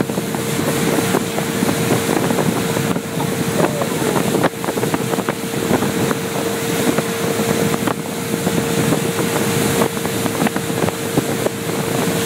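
Motorboat engine running steadily at speed, with one constant tone over a dense rush of noise, and wind buffeting the microphone.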